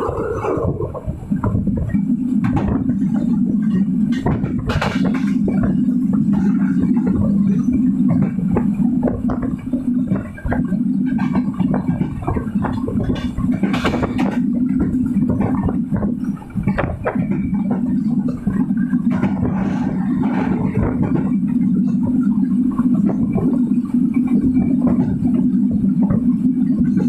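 Silkcity Express passenger train running: a steady low rumble of wheels on rails, with frequent clicks and rattles over it.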